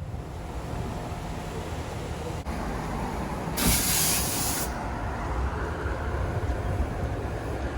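Car wash equipment running with a steady low rumble and water spray, and a loud hiss of spray for about a second some three and a half seconds in.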